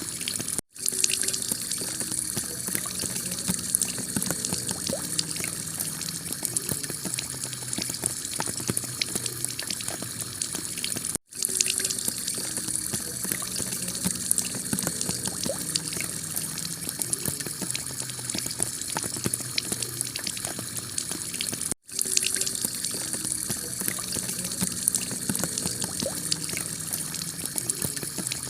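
Heavy rain pattering steadily on a clay-tile roof, a dense hiss full of individual drop impacts. The sound cuts out for an instant three times, about ten seconds apart.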